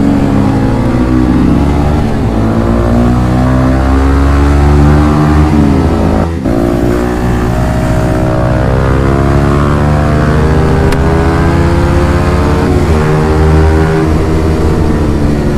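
Yamaha MT-15's 155 cc single-cylinder engine through a modified aftermarket exhaust, revving, its pitch climbing and falling again and again, with a short break about six seconds in.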